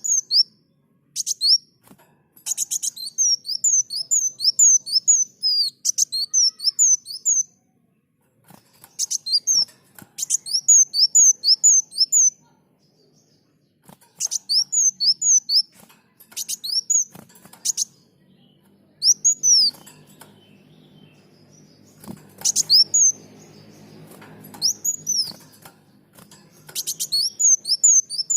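Kolibri muncang sunbird singing: phrases of rapid, high, sweeping chirps repeated in quick runs, with short pauses between phrases. A faint low hum sits under the song in the middle stretch.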